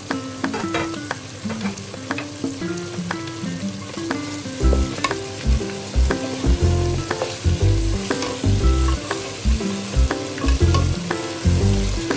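Mutton and masala frying in a large aluminium pot, sizzling as a ladle stirs through it, with clicks and scrapes of the ladle against the pot. Background music plays under it, and a low beat comes in about halfway through.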